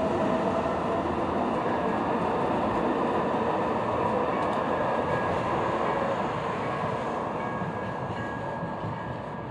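Los Angeles Metro light rail train running on the track, a steady rumble of wheels and motors with a faint high whine, gradually fading over the last few seconds.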